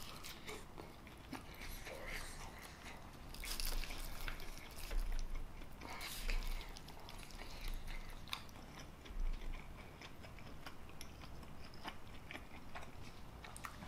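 A person chewing a mouthful of chicken and jalapeño mac and cheese: soft, irregular mouth and chewing sounds with a few louder moments.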